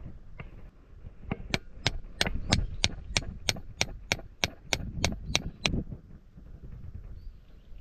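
A hammer striking metal in a quick, even run of about eighteen sharp blows, about four a second, starting about a second and a half in and stopping suddenly near six seconds: typical of driving a metal stake or rod into the ground while pitching a windscreen.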